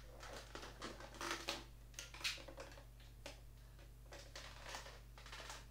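Faint scattered clicks and rustles of hands handling the motor as it is about to be spun by hand, over a steady low hum.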